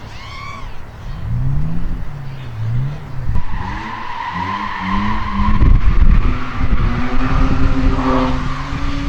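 Drift car's engine revved up and down in quick swings, then held high as the tyres squeal in a long slide, loudest about halfway through.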